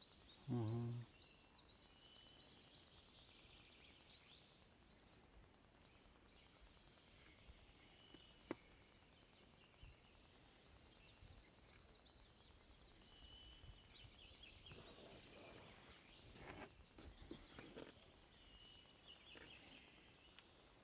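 Faint songbirds trilling and chirping in quiet outdoor ambience. About half a second in there is a short low hum, the loudest sound, and later a single sharp click and a few soft knocks.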